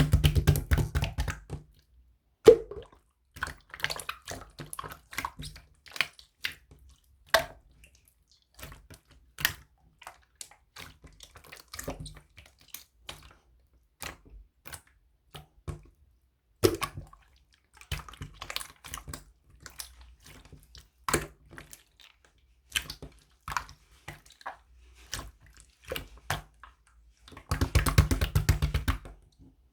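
Slime being squeezed and poked by hand, giving irregular wet clicks and small pops, with denser squelching at the start and again near the end.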